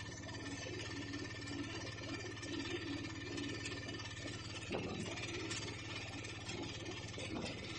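Piaggio Ape auto rickshaw's engine running steadily on the move, with the body rattling and a couple of louder knocks about five seconds in and near the end.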